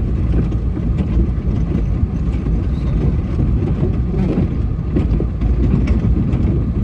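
Snowplow vehicle's engine running under load as the plow blade pushes snow along the road, a steady low rumble. The blade is set low enough to scrape into the dirt beneath the snow.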